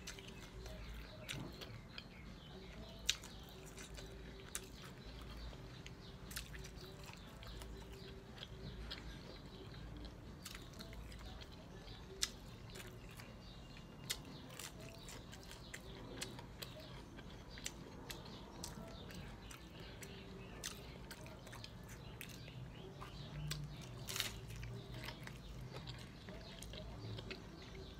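Close-up chewing and biting of crunchy hard taco shells, with short sharp crunches scattered irregularly through it.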